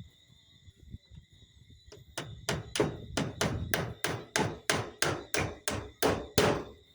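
Hammer driving a nail: a few light taps, then a fast, even run of about sixteen hard blows, roughly three to four a second, starting about two seconds in.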